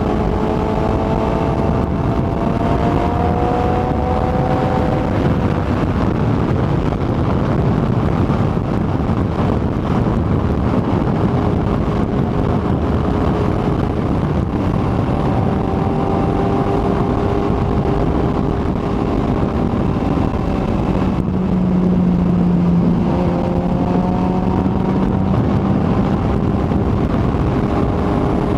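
Kawasaki ZX-14R's inline-four engine running at a steady cruise under heavy wind and road rush, its note rising and falling gently with the throttle.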